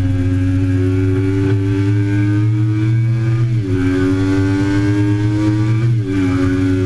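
2008 Triumph Daytona 675's three-cylinder engine accelerating hard, its pitch climbing steadily. It shifts up about halfway through and again near the end, the pitch dropping sharply each time before it climbs again.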